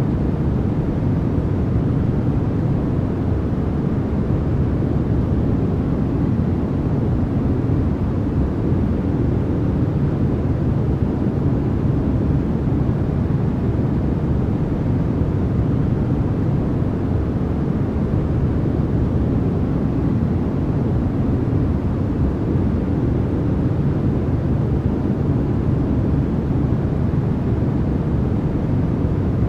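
Continuous, unchanging synthetic noise from a sleep-noise track, sold as white noise but deep and rumbling, its strength lying mostly in the low end and falling away in the highs.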